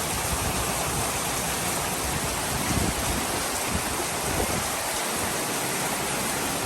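A sudden downpour just begun, falling in big drops: a steady, even hiss of rain.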